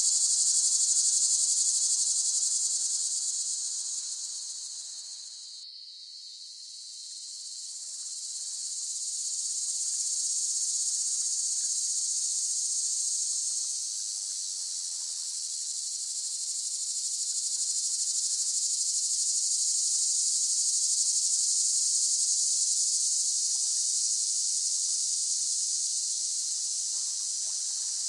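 Cicadas singing in chorus: a dense, continuous high-pitched buzz. It fades down about five seconds in and swells back up a few seconds later.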